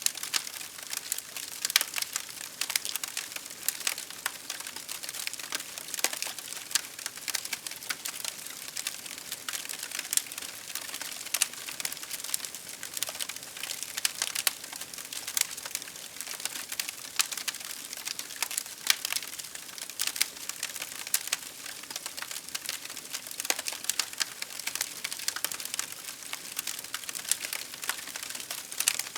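Wood fire crackling: a steady stream of irregular sharp pops and snaps over a soft hiss.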